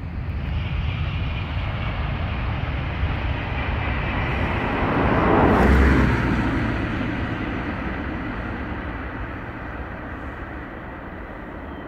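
TGV high-speed train passing at speed: a broad rushing rumble that swells to its loudest about six seconds in, then slowly fades as it runs away.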